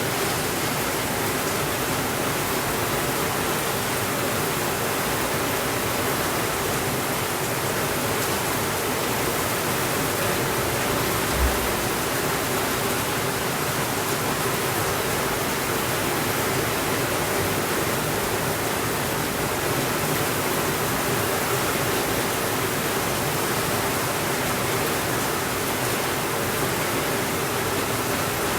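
Steady rainfall, a dense even hiss that does not change, with a single soft low thump about eleven seconds in.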